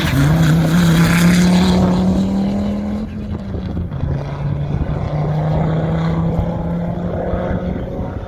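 Audi S2 Quattro rally car's turbocharged five-cylinder engine running hard under load. Its note climbs slightly for about three seconds, drops lower as it shifts up a gear, holds steady, and eases off near the end.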